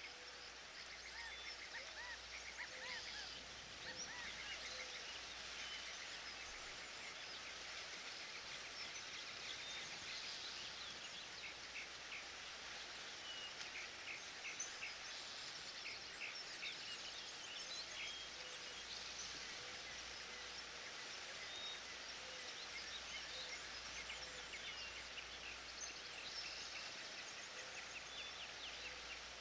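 Forest ambience: many birds singing and chirping over a steady faint hiss, with a few soft lower calls now and then.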